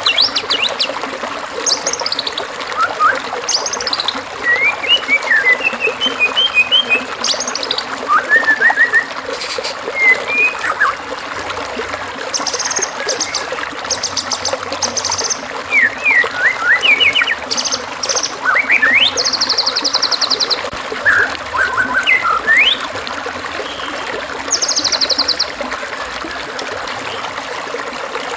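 Songbirds singing over steady trickling water: a stream of varied short phrases, fast buzzy trills, rising and falling whistles and chirps, one after another. It is a masteran song-training recording, a mix of bird songs meant to be copied by a white-rumped shama.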